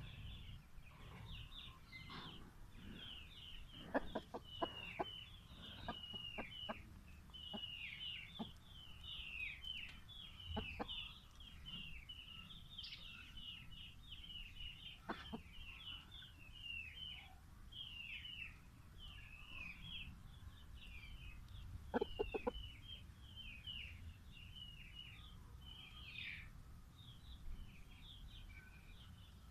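Small birds peeping continuously in a fast string of short, high, falling notes. Scattered sharp taps or clicks come through, in a cluster a few seconds in and again past the twenty-second mark.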